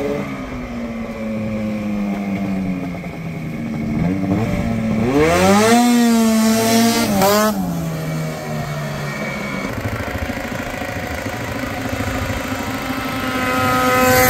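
Rotax 670 two-stroke twin from a Ski-Doo MXZ 670, swapped into a 1989 Honda Pilot, running on the move: it revs up sharply about five seconds in, holds high for a couple of seconds, drops back, then winds up again near the end.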